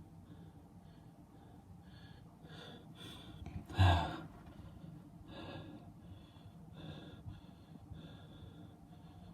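Soft breathing close to the microphone, in repeated breaths, with a brief bump or knock about four seconds in.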